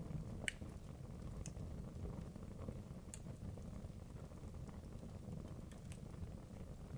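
Wood logs burning in a fireplace: a steady low rumble of flame with sharp crackling pops, the loudest about half a second in and a few more scattered through.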